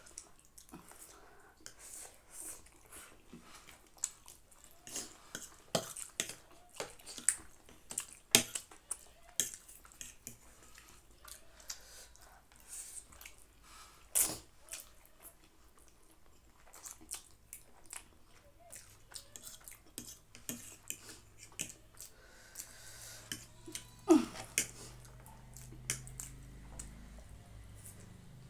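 People eating spicy instant noodles: irregular chewing and slurping with sharp clicks of utensils against bowls or plates.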